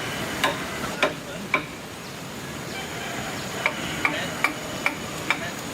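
Sharp knocks of a hand tool striking during woodworking, each with a short metallic ring: three a half second apart, a pause, then five more in quick succession, over a steady background hiss.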